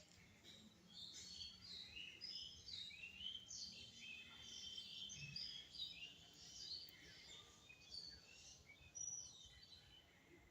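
Several small birds chirping and whistling faintly, with many short calls overlapping one another.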